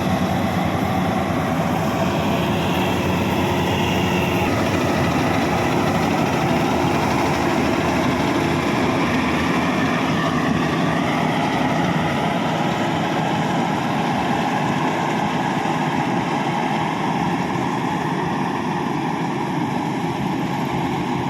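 Rice combine harvester running steadily, its engine and machinery making a continuous loud mechanical din.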